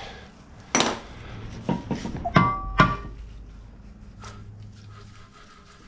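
A handful of sharp metallic clanks and knocks from tools working on the mower's blower-fan bolts. Two of them, in quick succession about halfway through, ring briefly like struck metal. A lighter click follows a little later.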